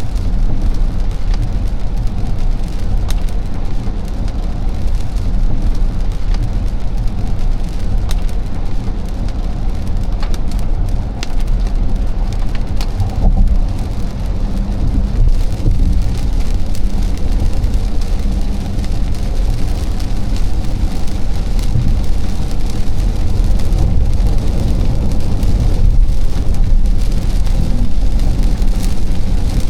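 A car driving on a wet expressway in the rain: a steady low road rumble with tyre hiss, and raindrops pattering.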